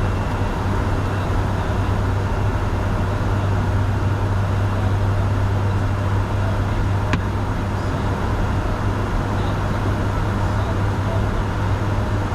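Steady flight-deck noise of a Bombardier Challenger 605 in flight: airflow rush over the cockpit and a constant low hum from its turbofan engines. A single faint click about seven seconds in.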